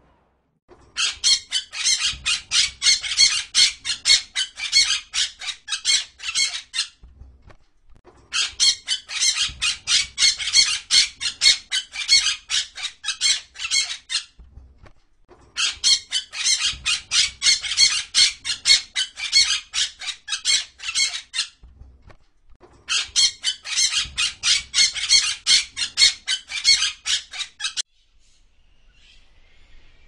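Small green parakeet squawking: rapid harsh calls, about three or four a second, in four runs of about six seconds with short pauses between them.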